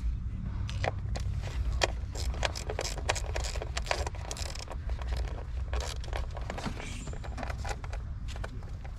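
Hand ratchet clicking and metal tools and bolts being handled, with many short irregular clicks, over a steady low rumble. The ratchet is tightening the hold-down bolts of engine coil packs.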